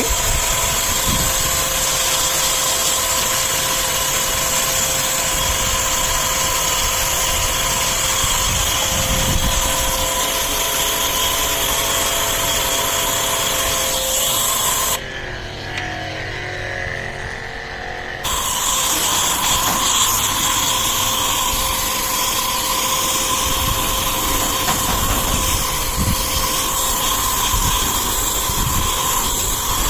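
Pressure washer pump motor running with a water jet spraying, used to clean an air conditioner's filter. It is a steady mechanical whine over hiss, which cuts out for about three seconds about halfway through and then starts again.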